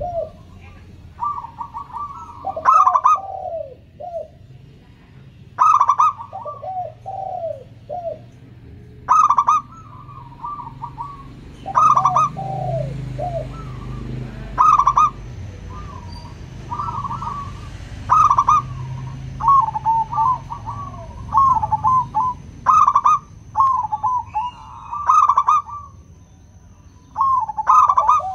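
Zebra doves (local perkutut) cooing: repeated rapid, rippling coo phrases, overlapping at two pitches, with a louder, sharper note about every three seconds.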